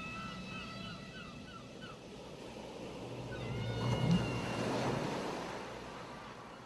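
Ocean surf washing on a beach: a wave swells, breaks about four to five seconds in, then recedes. Faint repeated high calls sound over it early on and again near the middle.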